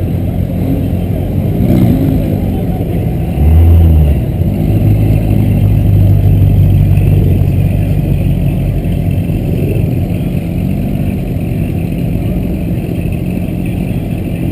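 Car engine rumbling low, with a short, loud rev about three and a half seconds in, then a held drone at a steady pitch for a few seconds that eases off.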